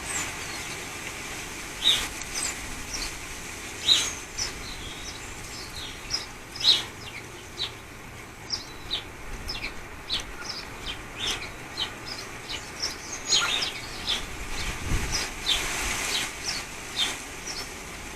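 Garden birds calling in short, sharp chirps, scattered and growing more frequent toward the end, over a steady rush of wind.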